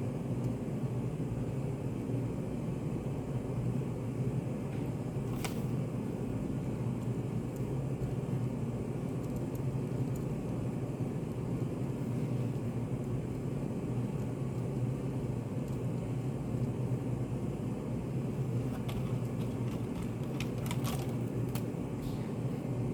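Study café room ambience: a steady low hum and rumble, with a faint click about five seconds in and a few light clicks and taps near the end.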